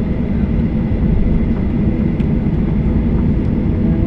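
Steady low rumble inside the cabin of a Boeing 737-800 on the ground after landing, with a faint steady high whine over it.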